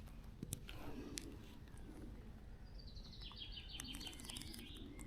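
A small bird sings a rapid run of short high notes that step slightly downward over about two seconds in the second half, over a steady low outdoor rumble. A few sharp clicks stand out.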